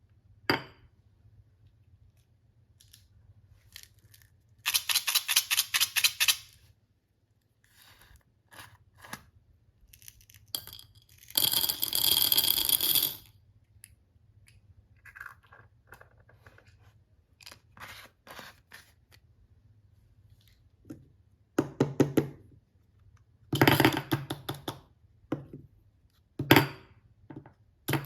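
Hands unpacking small toy packaging: bursts of rapid crinkling and clicking from plastic and paper wrapping, with quiet gaps between them. The longest, densest stretch comes about halfway through.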